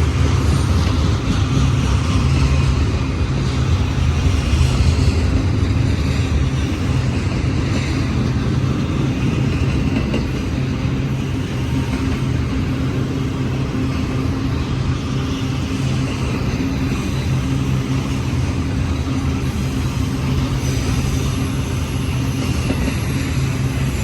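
Union Pacific intermodal container train rolling past: a steady, continuous rumble of steel wheels on the rails.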